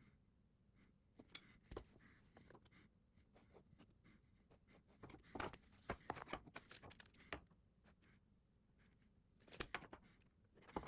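Faint scattered clicks, light knocks and scrapes of small wooden workpieces being handled on a bench, mostly about five to seven seconds in and again near the end.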